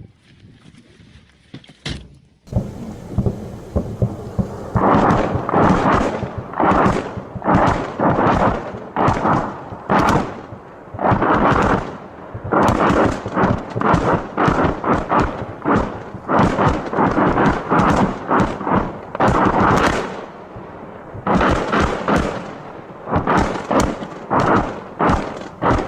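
A Grad multiple rocket launcher salvo: a rapid ripple of many blasts in quick succession, in clusters with brief lulls, starting about two and a half seconds in.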